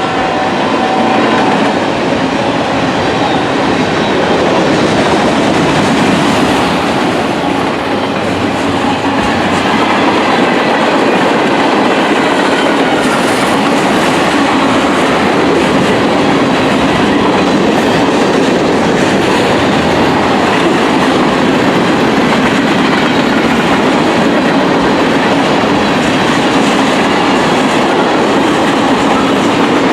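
A train rolling past close by, its wheels running over the rails in a steady loud rumble with clickety-clack. The tail of a horn blast ends about a second in.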